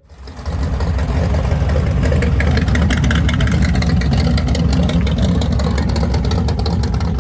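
A car's engine and exhaust running loudly and close, a steady deep rumble that starts abruptly and holds through.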